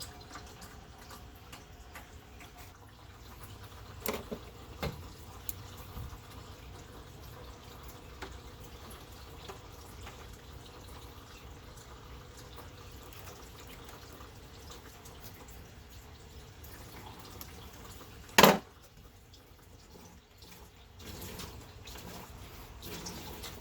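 Engine coolant trickling steadily out of the opened radiator drain of a 2005 Lexus RX330 into a drain pan. A few light clicks are heard, and one sharp knock comes about eighteen seconds in.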